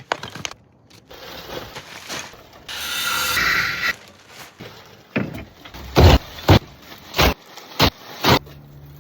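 Roof-tiling work: a scraping hiss, then five loud, sharp knocks about half a second apart, such as a hammer striking on the roof.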